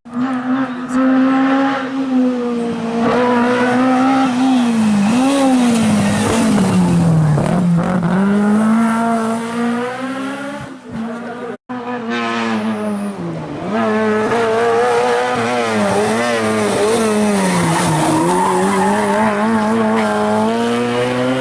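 Historic rally car engines driven hard on a special stage, revving up and dropping back with gear changes and lifts off the throttle for corners. The sound cuts abruptly about halfway through to another passage of engine revving.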